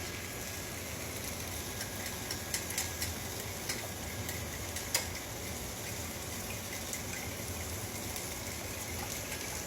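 Steady sizzling of food cooking in a pan on the stove, with a few sharp clicks a few seconds in.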